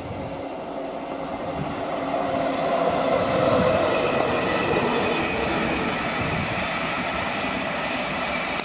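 Virgin Trains East Coast express passenger train passing: steady wheel-and-rail running noise that builds to its loudest about three to four seconds in, then holds a little lower as the rest of the coaches go by.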